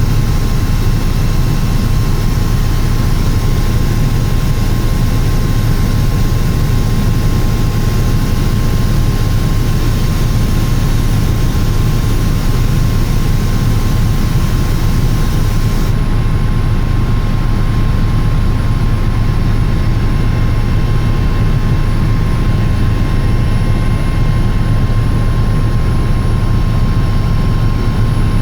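Helicopter in flight heard from inside the cabin: a loud, steady drone of rotor and turbine with a deep hum and a thin steady whine above it. About halfway through, the high hiss drops away.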